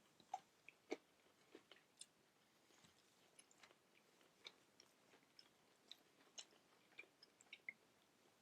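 Faint chewing of food up close, a scatter of small, irregular mouth clicks.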